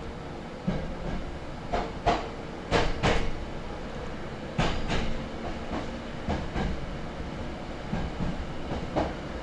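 Hankyu 6300-series electric train running, heard from inside the passenger car: a steady rumble with the wheels clacking over rail joints in irregular single and paired strikes, the loudest pair about three seconds in.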